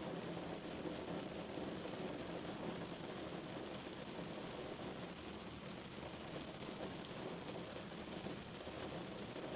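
Steady rain falling on a car, a dense even patter of drops with a low rumble underneath.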